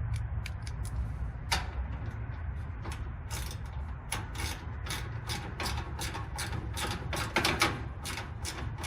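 Hand ratchet wrench clicking in irregular runs as a screw is turned, several clicks a second and busiest from about three seconds in.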